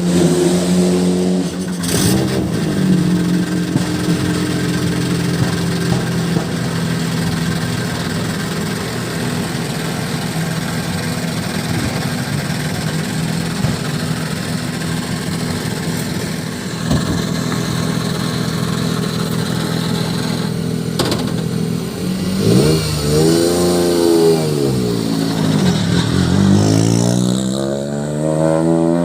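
Toyota GR Yaris AP4 rally car's turbocharged three-cylinder engine idling steadily, then revved at low rpm in the last several seconds: the pitch rises and falls twice, then climbs slowly.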